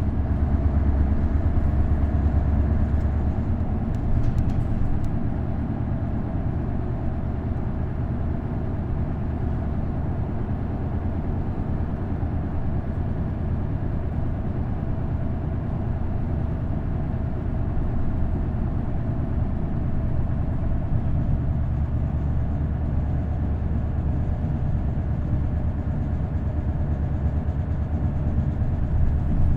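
Isuzu Erga bus's V8 diesel engine running with its five-speed manual gearbox: a continuous low drone with road noise. It is heavier for the first few seconds and again through the last third.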